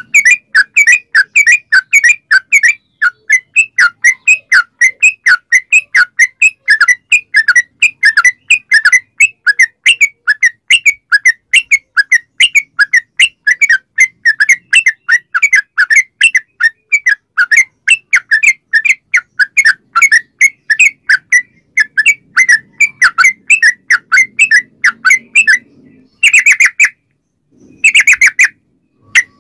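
Yellow-vented bulbul (trucukan) singing a long, rapid run of short chirping notes, several a second, with no break. Near the end it stops briefly, then gives two short bursts.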